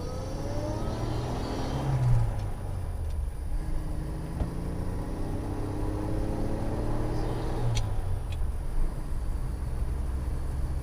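1948 Studebaker M5 pickup's Champion 169 cubic inch flathead six running under way, its pitch climbing as it accelerates and dropping about 2 seconds in and again near 8 seconds as the gears change, with a couple of short clicks at the second change.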